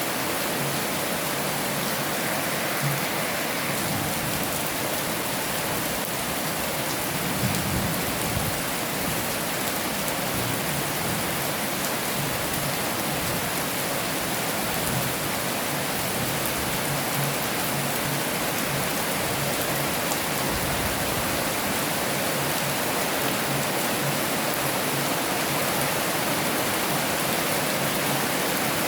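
Heavy rain falling steadily, a dense even hiss of drops on surfaces, with a few soft low thuds near the start.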